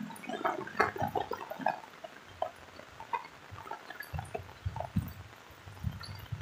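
Rain falling on a wet paved lane, with many scattered drips and splashes and a few low thumps in the second half.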